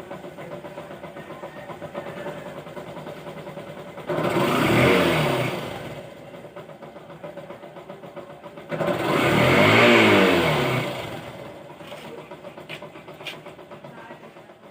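Yamaha YTX125's single-cylinder 125 cc engine idling, revved twice: each blip rises quickly in pitch and level and then falls back to idle over a second or two. A few faint clicks follow near the end.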